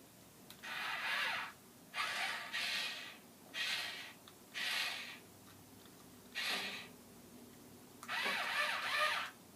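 Small electric motors and gears of a New Ray toy RC forklift whirring in short bursts, about seven in all, with quiet gaps between, running on batteries that are not the freshest.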